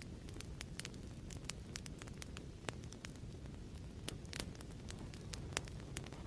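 Fireplace fire crackling: a steady low rumble of the flames with frequent irregular sharp pops and snaps of burning wood.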